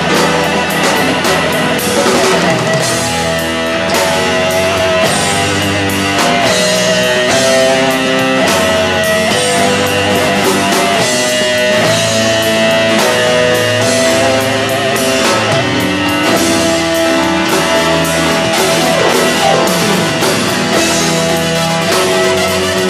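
Rock band playing an instrumental passage: a guitar carries a held melodic line over bass and drum kit.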